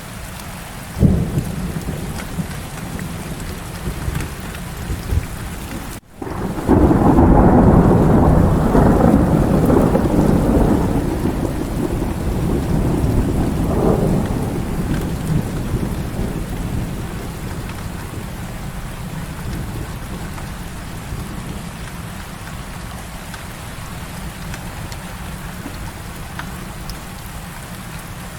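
Heavy rain falling steadily. A short low thump comes about a second in. About six seconds in the sound drops out for a moment, then a loud rolling thunderclap breaks, swells again a few seconds later and dies away slowly over some ten seconds back into the rain.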